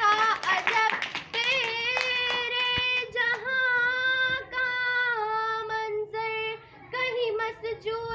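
A child's solo voice singing Urdu verse in long, drawn-out, ornamented notes, with the pitch wavering and sliding between held tones. A few sharp taps sound during the first three seconds.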